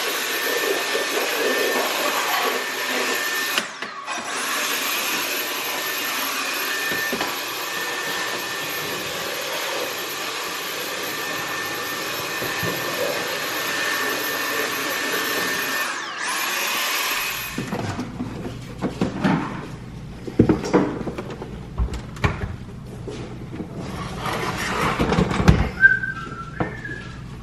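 A steady whooshing machine noise with a faint constant high whine, like a vacuum cleaner running, breaks off briefly twice and stops about 17 seconds in. Scattered knocks and clatter of handled objects follow.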